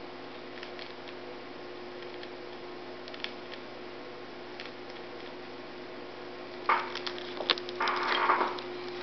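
Cockatiel cracking and crunching pieces of Nesquik cereal in its beak: a few faint clicks, then from about two-thirds in a run of loud sharp cracks and a dense crunching spell, over a steady low hum.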